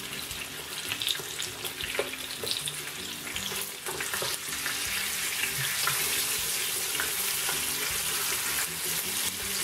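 Lamb shanks frying in shallow oil, a steady sizzle with scattered crackles. A few clicks of metal tongs against the meat and pan come as the shanks are moved and turned, and the sizzling gets louder about four seconds in.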